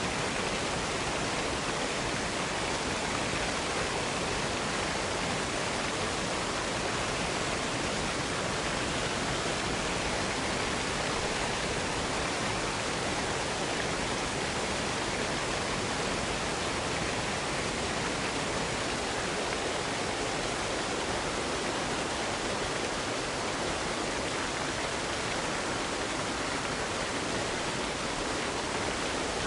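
Waterfall falling steadily into a pool: an even, unbroken rush of water with no change in level.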